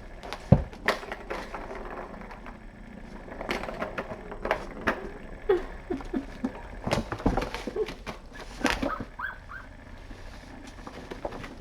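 Kittens playing rough: scattered knocks, clicks and clatter of small bodies and toys on the floor, with a few brief high squeaks about halfway through and again later.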